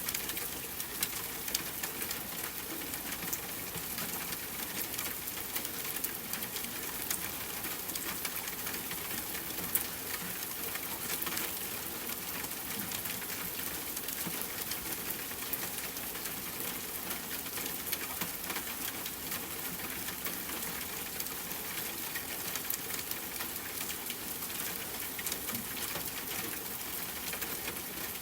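Steady rain hissing, with a wood fire crackling over it in scattered sharp pops, one a little louder about ten seconds in.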